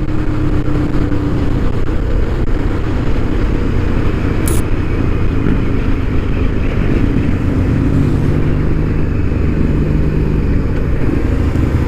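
Motorcycle cruising at steady motorway speed: a low engine drone under a constant rush of wind and road noise. A short high tick sounds about four and a half seconds in.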